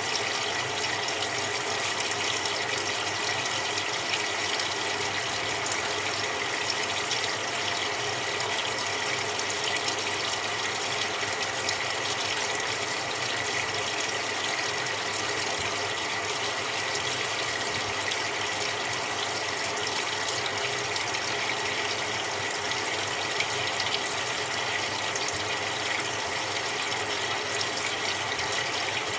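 Samsung 6.5 kg top-loading washing machine filling its tub with cold water: a steady rush of water pouring in, with a faint steady whine.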